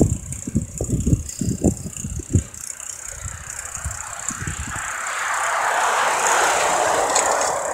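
Wind buffeting the microphone in low gusty thumps during a bicycle ride. In the second half a rushing noise swells and fades over about three seconds, like a vehicle going past.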